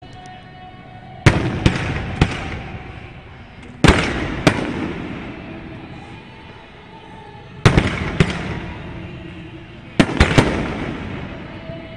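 Aerial firework shells bursting: four clusters of two or three sharp bangs a few seconds apart, each followed by a long rolling echo that dies away.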